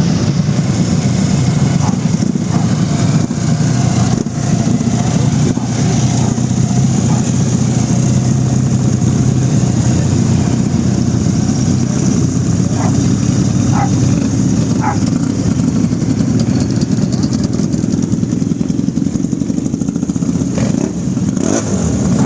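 Historic racing vehicle engines running steadily, a constant low drone without big changes in pitch.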